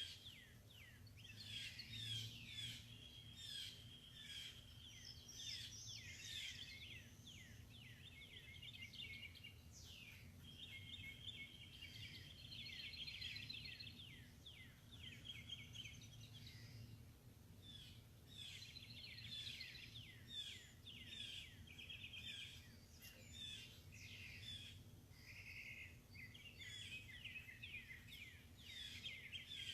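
Faint songbirds singing outdoors: quick chirps, buzzy trills and runs of short repeated notes go on throughout, over a low background rumble.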